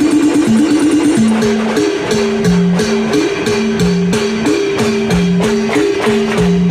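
Adivasi timli band music: a short melodic phrase repeating over a steady percussion beat of about four strokes a second.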